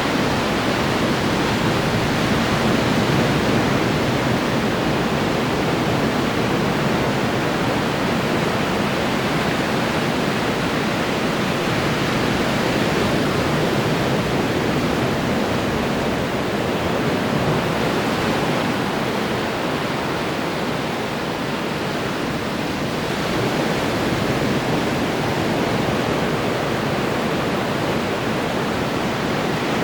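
Ocean surf breaking on the shore: a steady, dense wash of waves that swells and eases gently without pause.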